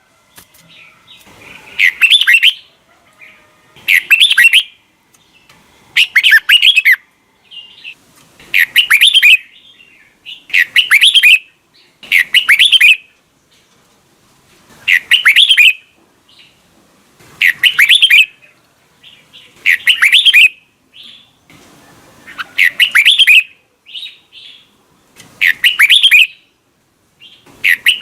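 Red-whiskered bulbul song: loud, short warbled phrases, each about a second long, repeated about every two seconds.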